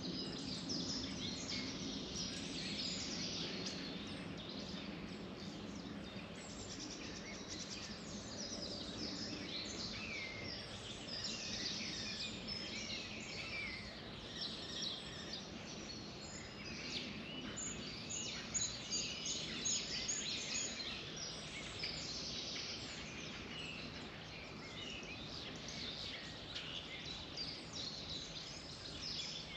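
Several songbirds singing and chirping at once, a busy chorus of short high calls and trills, over a steady low background hum.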